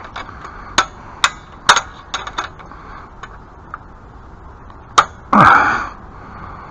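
Sharp knocks and clicks of hand work on a shed repair. There is a quick run of them in the first two and a half seconds and one more about five seconds in, followed at once by a louder, harsh sound lasting about half a second.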